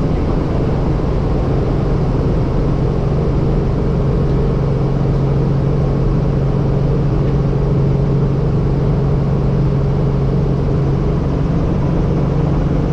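Helicopter running in flight, its engine and rotor making a steady, loud drone with a strong low hum.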